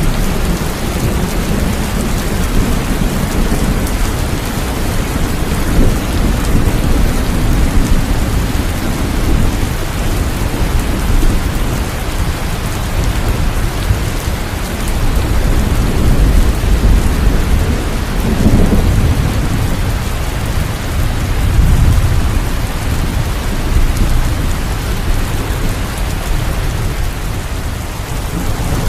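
Steady heavy rain falling, with low rolling thunder rumbling up a few times in the second half.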